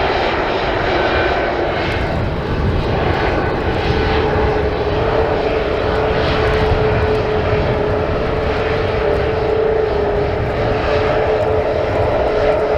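Boeing 737 MAX 8's CFM LEAP-1B jet engines running loud and steady during the takeoff, with a held whine over the roar. Gusty wind rumbles on the microphone underneath.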